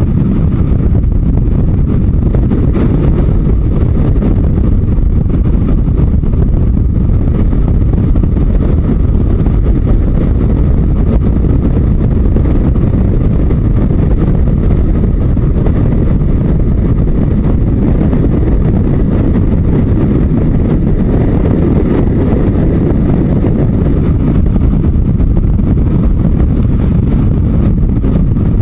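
Yamaha Diversion 900's inline-four engine running steadily at road speed, mixed with a heavy rush of wind on the microphone.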